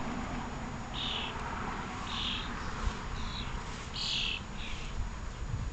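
Birds giving short, harsh calls, repeated about once a second, five in all.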